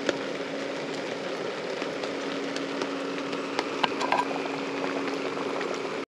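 Steady rain falling, with scattered sharp drip ticks, over a steady low hum.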